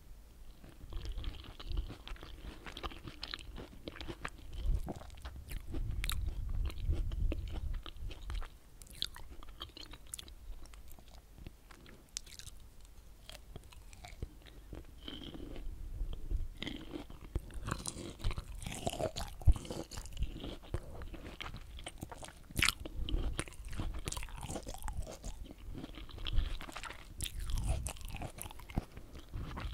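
Pomelo pulp being bitten and chewed right at the microphone, with irregular sharp crunches and mouth sounds.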